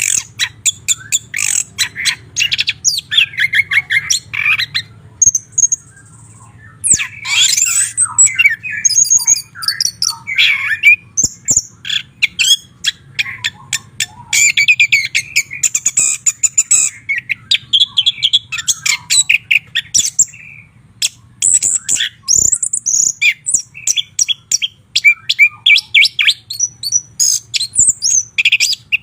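White-rumped shama singing: a long run of rapid, varied whistles and chattering phrases with a few short pauses, over a faint low hum.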